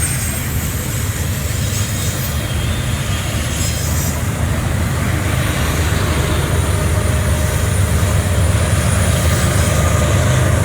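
Union Pacific double-stack container freight trains rolling by: a steady low rumble that grows slightly louder toward the end.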